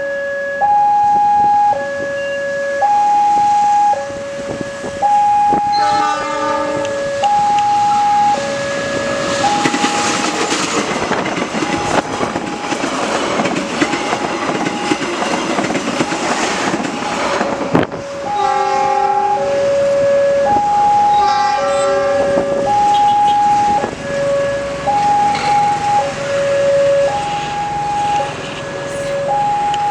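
Railway level-crossing warning signal sounding a two-tone electronic alternation, a high note and a lower note of about a second each, repeating throughout. A train sounds its horn about six seconds in, then passes over the crossing with wheel and rail noise for about ten seconds. It gives more horn blasts as it clears.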